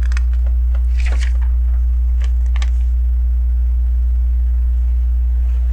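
A steady low electrical hum runs throughout. Over it come a few faint clicks and rustles of plastic LEGO pieces being handled, near the start, about a second in and twice around two seconds in.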